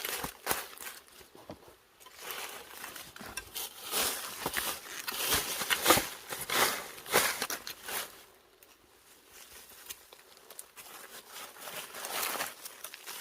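Digging in soil by hand: irregular scraping and crunching strikes of a tool into earth and rustling plant matter, busiest in the middle and quieter near the end.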